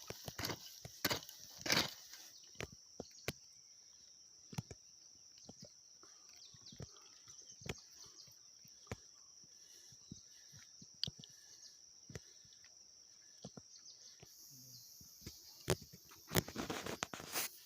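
Steady high-pitched insect buzzing, with sharp knocks and scrapes of digging in soil. The knocks come in a quick series of strokes about a second apart at the start, turn sparse, then cluster again near the end.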